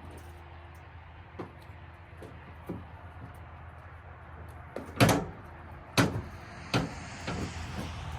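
A few knocks and bangs over a steady low hum: faint knocks early on, then three loud knocks about a second apart a little past the middle, followed by smaller ones.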